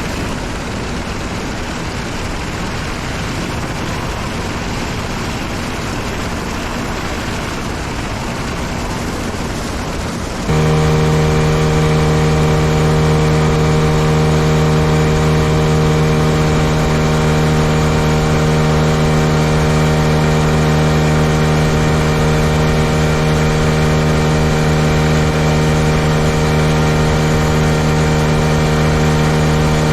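A motorboat under way with a loud, even rush of wind and water noise. About a third of the way in this switches suddenly to the steady, unchanging drone of the Tarpon 9.9 outboard motor running at constant throttle.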